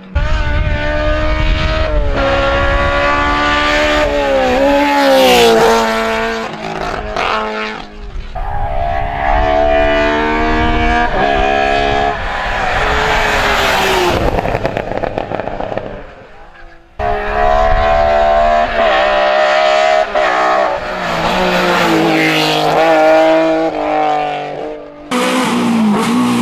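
BMW M3 race cars driven hard, their engines revving high and climbing in pitch, then dropping sharply at each gear change. The sound breaks off and restarts several times as separate runs follow one another.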